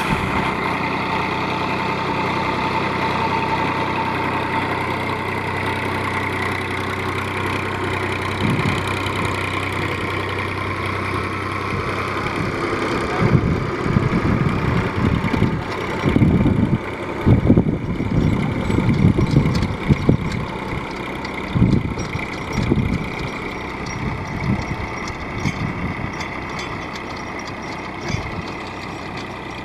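Massey Ferguson tractor's diesel engine running steadily. From about the middle, irregular heavy rumbling thuds come over it, then die down near the end.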